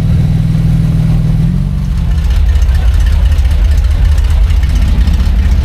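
Car engine running close by with a deep, pulsing rumble; the higher part of the rumble drops away about two seconds in, leaving a lower, steady drone.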